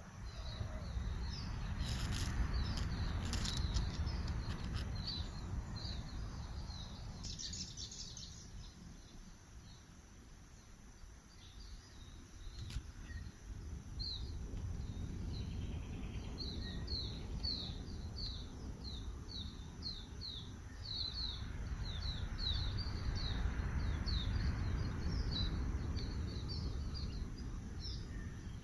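A small bird chirping in short, high notes, scattered at first, then in a quick run of two or three chirps a second over the second half, above a low outdoor rumble that swells and fades.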